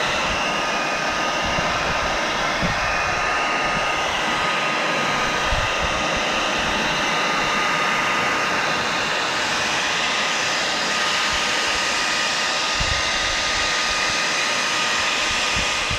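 Cheap Remington handheld hairdryer running on full power, a steady rushing blow with a thin, constant high whine.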